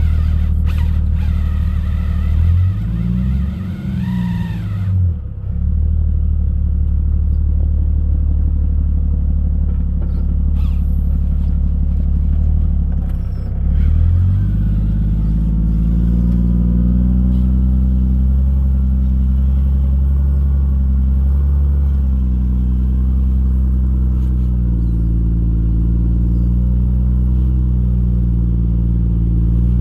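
Jeep Cherokee XJ engine running at low revs while rock crawling, with short revs up and down a few seconds in and again about halfway, then held at slightly higher, wavering revs under load.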